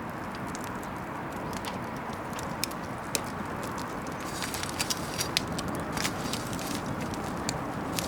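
Wood bonfire burning with a steady rush of flame and scattered sharp crackles and pops, which come more often in the second half.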